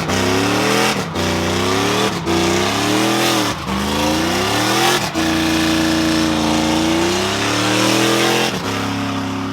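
A truck doing a burnout: the engine is revved hard over and over, its pitch climbing and dropping back every second or so, over the steady hiss of the rear tires spinning against the pavement.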